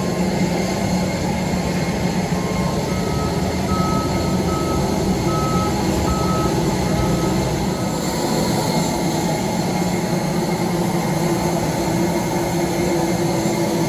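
Steady rumble of an Airbus A321neo, with a series of short electronic beeps, a few on a lower tone near the start and then a run on a slightly higher tone until about halfway through.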